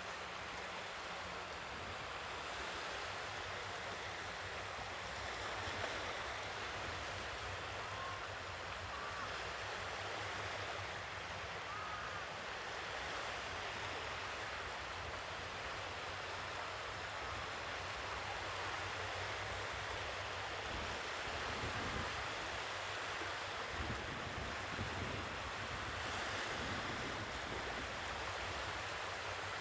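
Sea waves washing onto the shore in a steady hiss that swells and eases, with some wind on the microphone.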